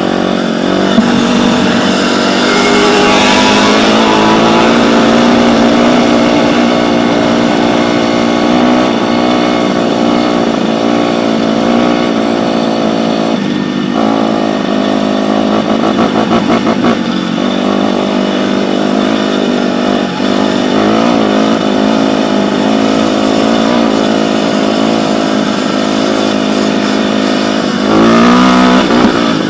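Dirt bike engine running with the throttle worked on and off, its pitch rising and falling, and a louder rev near the end.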